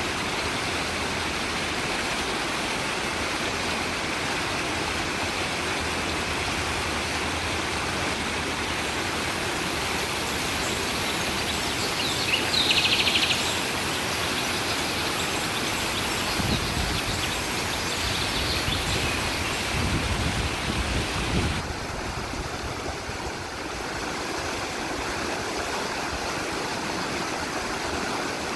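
Stream running steadily, with a short, rapid bird trill a little before the middle and a few low rumbles past the middle.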